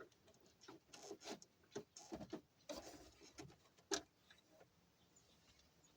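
Faint, irregular clicks, taps and light rubbing of small parts being handled on a truck instrument cluster, with one sharper tap about four seconds in.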